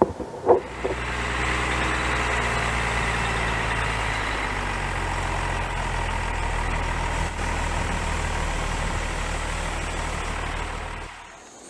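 An engine starts after a few sharp clicks, runs steadily at idle for about ten seconds with a low, even hum, then cuts off suddenly near the end.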